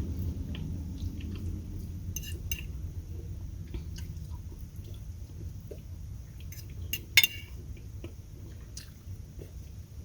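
Eating sounds: a utensil clicking and scraping against a plate, with one louder clink about seven seconds in, over a steady low rumble.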